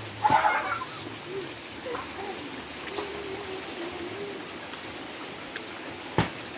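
Steady rain falling and pattering on surfaces. A child's brief shout comes about half a second in, a faint wavering call sounds in the background, and a single sharp knock comes near the end.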